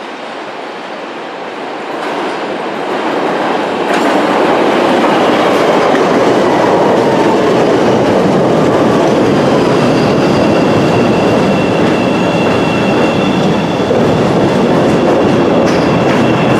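Chicago 'L' rapid-transit train running on the rails, its wheels clattering. The sound grows louder over the first four seconds and then holds steady, with a thin high whine joining about ten seconds in.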